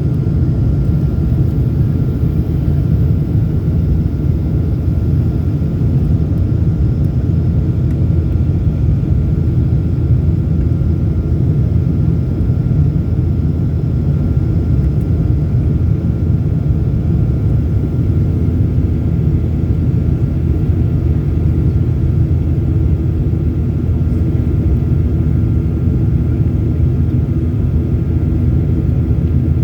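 Airliner's engines and airflow heard inside the cabin during the climb after takeoff: a loud, steady low drone with a faint high whine, and a second steady hum joining about two-thirds of the way through.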